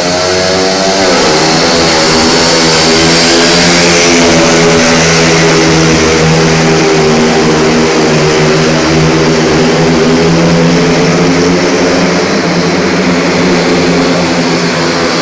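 Speedway motorcycle's single-cylinder methanol engine running hard as the bike laps the dirt track. The revs dip and climb again about a second in, then hold high and steady.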